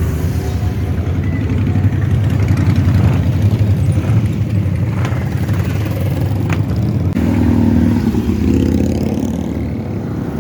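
Motorcycle engines running and revving in a dense low rumble, with a higher engine note rising over it about seven seconds in.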